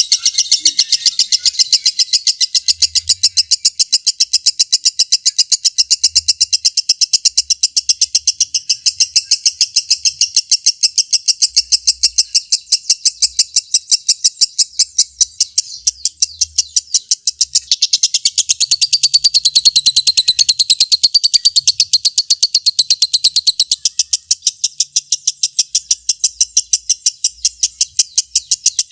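Lovebird (Agapornis) in full 'ngekek' song: one long, unbroken chattering trill of rapid, even chirps at about seven a second. It rises in pitch and gets slightly louder for a few seconds past the middle.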